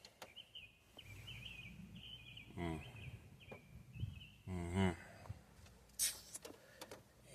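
Outdoor ambience with a small bird chirping rapidly for the first few seconds, and two brief murmurs from a man's voice.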